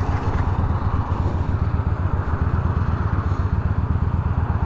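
Yamaha Bolt's air-cooled V-twin engine running under way, a steady low rumble with a quick pulsing beat.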